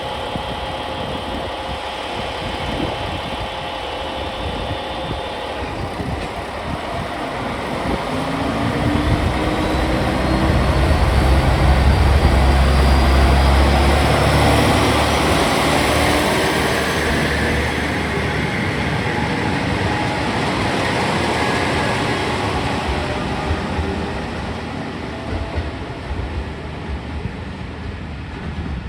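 Two-car Japanese diesel railcar train (a KiHa 47 and a KiHa 125) idling, then its diesel engines throttling up as it pulls away. The low engine rumble builds from about eight seconds in and is loudest a few seconds later, with a whine rising in pitch over it, then eases as the train moves off.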